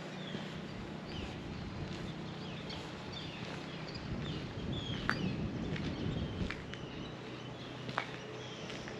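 Small birds calling outdoors, short downward chirps repeated every second or so, over a steady low hum. The hum swells into a low rumble in the middle, and there are two sharp clicks, one about five seconds in and one near the end.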